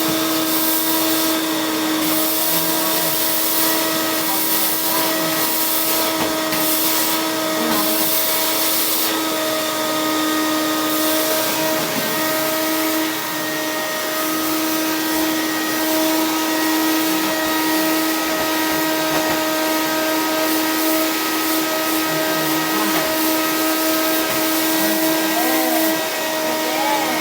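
Vacuum cleaner running steadily: an even motor whine over the hiss of rushing air.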